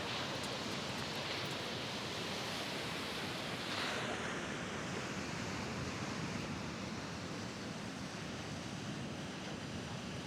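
Sea waves breaking and washing on the shore, with one wave surging louder about four seconds in.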